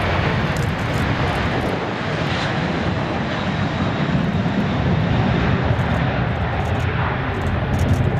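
Jet engine noise from a departing Boeing 737 BBJ3's CFM56-7B turbofans, heard as a steady, loud rumble.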